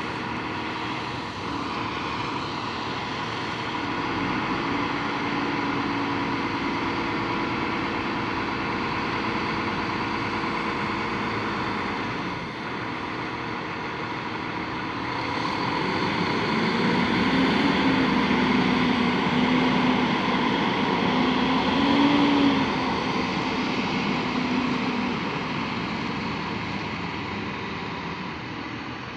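Jet airliner engines passing, a steady noise with a wavering hum that swells to its loudest about two-thirds of the way through, then fades.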